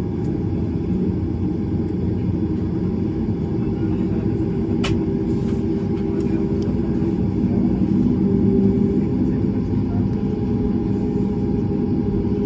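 Steady low rumble with a few unchanging hum tones inside a Boeing 737-9 MAX cabin on the ground, with one sharp click about five seconds in.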